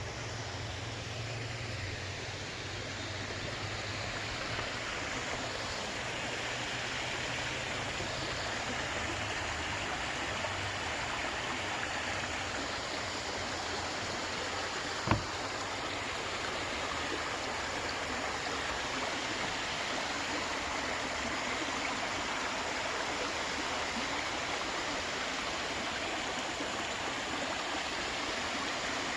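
Steady rush of flowing stream water that grows a little louder over the first few seconds, with a single sharp click about halfway through.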